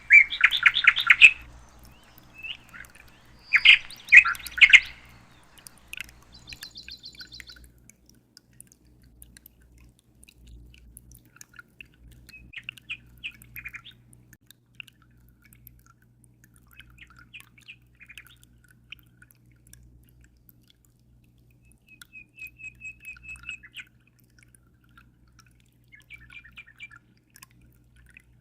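Birds chirping and calling, with two loud bursts of quick chirps in the first five seconds, then softer scattered chirps and short trills. A faint steady low hum runs underneath.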